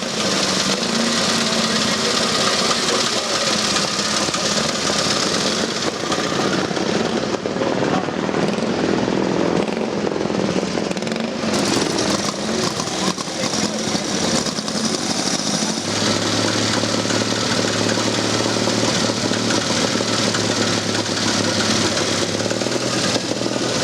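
Motorcycle engines running, in several cut-together shots that change abruptly; over the last third a steady low engine note holds.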